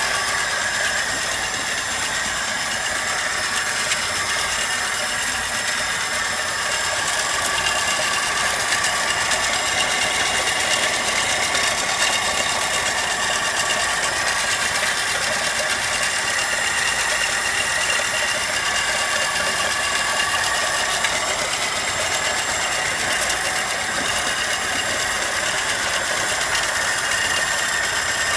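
VAZ-2103 Zhiguli inline-four engine running steadily, with a fast light rattling tick over the engine note: the extraneous noise the owner is trying to track down.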